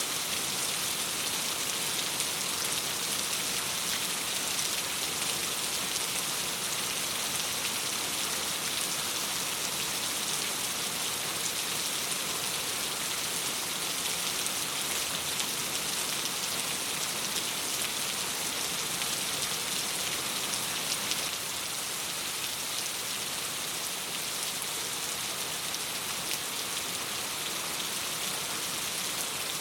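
Steady rain on a window: a dense, even hiss of drops, dipping slightly in level about two-thirds of the way through.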